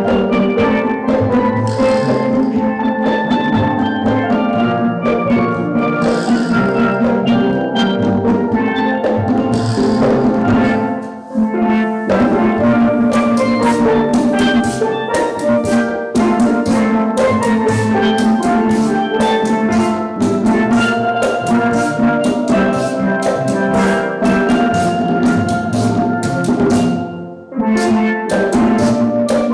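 Steel drum band playing a tune, with drums keeping a steady beat under the pans. The music drops out briefly twice, about eleven seconds in and near the end.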